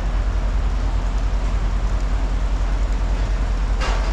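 A large engine idling with a steady low, pulsing rumble, and a brief clatter near the end.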